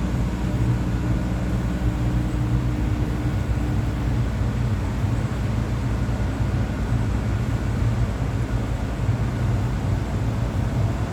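Steady low rumble of a vehicle engine, with a hum that drops away about four seconds in.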